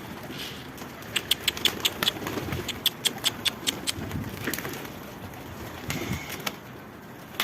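Pigeons at a loft, with low cooing and a run of quick sharp clicks, about four a second, starting about a second in and coming again near the middle.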